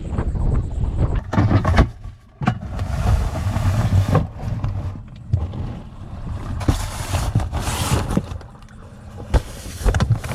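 Wind buffeting the microphone in uneven gusts, a low rumble with surges of rushing hiss, over water washing and splashing around a sea kayak under way.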